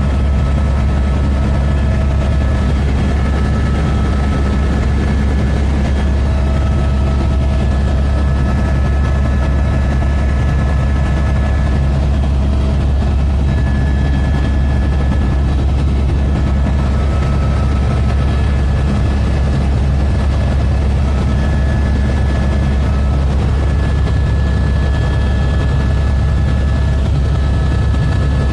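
Helicopter in flight: a loud, steady drone of rotor and engine that does not let up.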